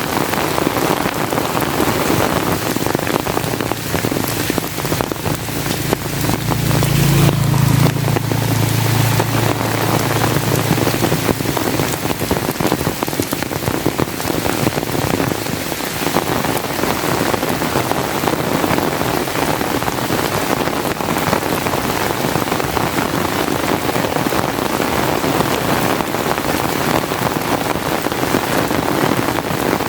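Steady rain falling, a dense even hiss of drops. A low rumble swells and fades between about four and twelve seconds in.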